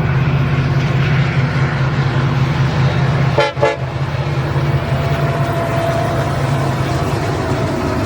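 A diesel locomotive engine running steadily, with a brief double horn toot about three and a half seconds in.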